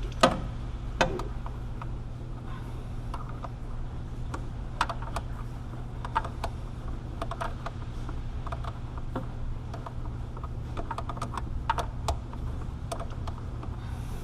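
Irregular metallic clicks and taps of hand tools on the fitting of a power steering pressure line being started and turned, with two sharper knocks in the first second. A steady low hum runs underneath.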